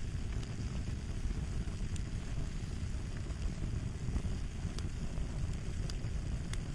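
Fire crackling: a steady low rumble of burning with small sharp pops scattered through it.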